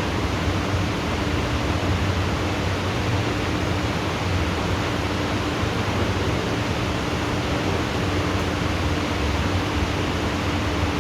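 Heavy tropical rain falling in a steady, even downpour, with a constant low hum underneath.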